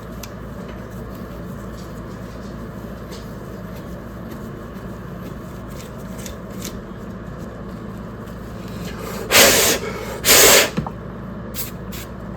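Two short sprays of cleaner, each about half a second long and a second apart, over a low steady background hum with faint light ticks before them.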